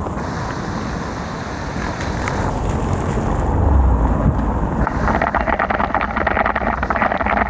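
Wind rushing over the microphone and rain noise during a bicycle ride in heavy rain, over a low traffic rumble. About five seconds in, a dense rapid crackle sets in on top.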